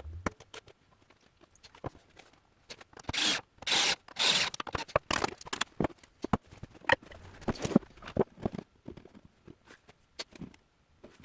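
Workshop handling noises: scattered clicks and knocks of hard parts being handled, with a few short scraping strokes about three to four and a half seconds in.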